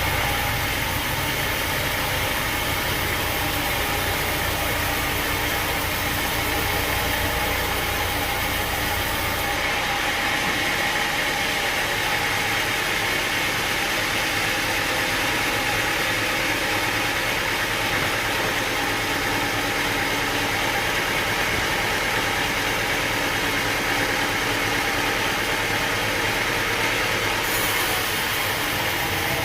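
Sawmill machinery running steadily. A deep hum underneath drops out about a third of the way in and returns near the end.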